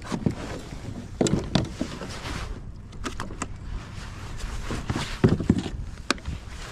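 Scattered knocks, clicks and rattles of fishing gear being handled in a kayak, over a steady low rumble of wind on the microphone.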